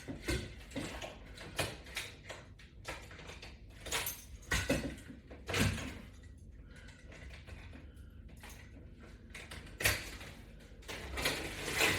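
Irregular clicks and knocks of resistance-band gear (bands, straps and carabiner clips on a latch bar) being worked and handled, with a few sharper knocks around five seconds in and near ten seconds.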